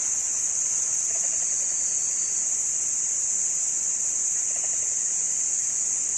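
Steady, high-pitched drone of a chorus of insects, unbroken throughout, with a couple of faint short sounds lower down about a second in and around four and a half seconds in.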